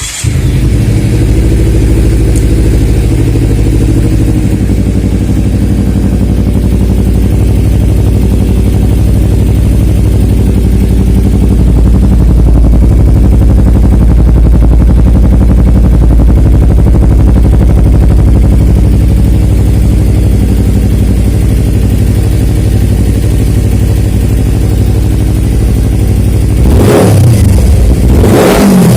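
Kawasaki Ninja 250 FI parallel-twin engine through a Nassert Beet Japan Evo 2 aftermarket exhaust, idling steadily, then blipped twice near the end in two quick revs.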